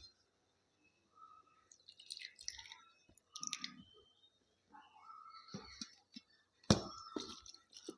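Close-up eating sounds of a person eating rice and chicken: wet chewing and mouth noises with scattered small clicks, and one sharper click near the end.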